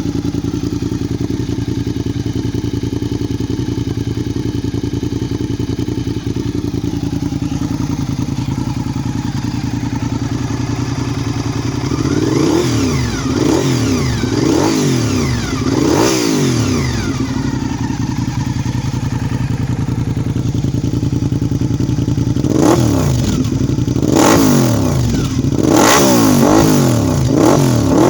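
Honda RC51 SP1's 90-degree V-twin running through a Jardine 2-into-1 titanium exhaust: steady idle for the first half, then a run of sharp throttle blips about halfway through, and another run of blips over the last few seconds.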